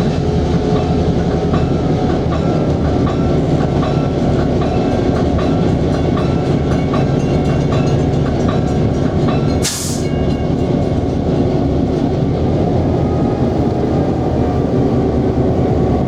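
BL2 diesel locomotive's EMD 567 engine running steadily, heard from inside the cab as it moves slowly, with a light regular clicking over it. A brief sharp hiss cuts in about ten seconds in.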